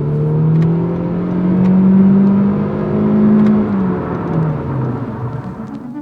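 Car engine accelerating. Its note climbs steadily for about three and a half seconds, then drops away over the next second or so.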